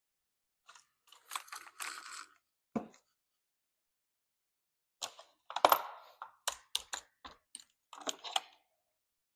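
Small hard tool parts being handled as a 6mm Allen bit is picked out and fitted to a cordless driver. Soft rustling comes first, then a single click, then a run of sharp small clicks about halfway through.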